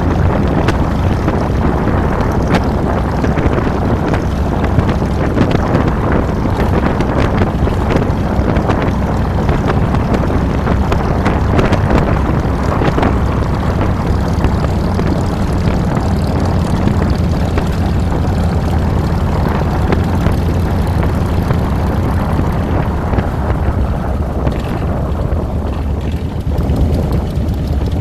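2007 Harley-Davidson Fat Boy's Twin Cam 96 V-twin running under way, a steady low exhaust drone mixed with wind rush on the handlebar-mounted microphone. Near the end the wind rush fades as the bike slows.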